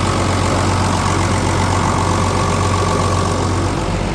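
Ford 8830 tractor's six-cylinder diesel idling steadily while warming up after a cold start. A thin high whine runs alongside and drops out shortly before the end.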